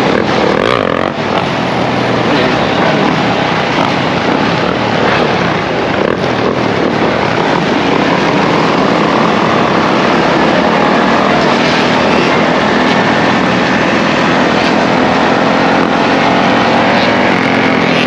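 Dirt bike engines running steadily during a group street ride, a loud continuous engine noise that holds level throughout.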